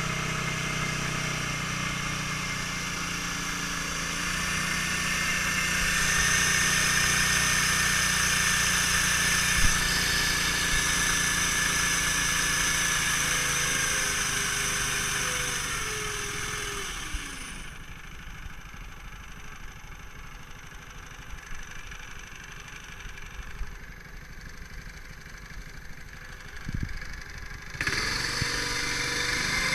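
Small 8 hp mud-motor outboard running on a PVC boat, a steady engine drone. Its pitch falls about two-thirds of the way through as it slows, then the sound turns much quieter and duller before the full engine sound comes back abruptly near the end.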